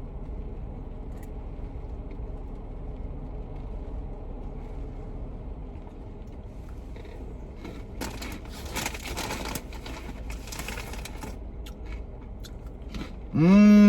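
Crackling and crunching of cheese crunchies, a dense stretch of a few seconds after a long quiet spell over a low background hum. Near the end a loud "mmm" of approval, falling in pitch.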